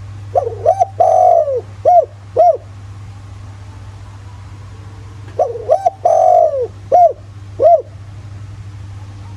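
Spotted dove cooing: two identical song phrases about five seconds apart, each a couple of short coos, one longer drawn-out coo, then two more short coos. A steady low hum runs underneath.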